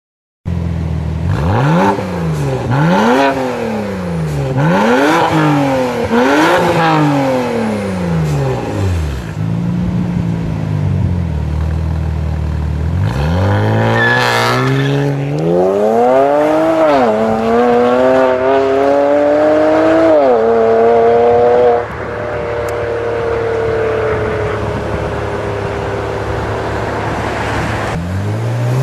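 BMW 335i E92's turbocharged straight-six through an Innotech/iPE valved sport exhaust. It blips four times in quick succession and settles back to idle, then pulls hard, rising in pitch with two gear changes. From about two-thirds of the way in it drops to a quieter, steady note that slowly falls.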